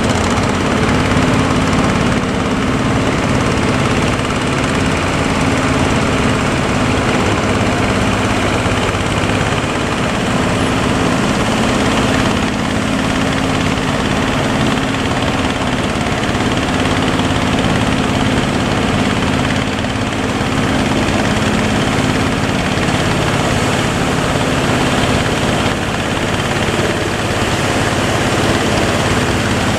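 A boat's engine running steadily, a constant low drone under an even rushing noise.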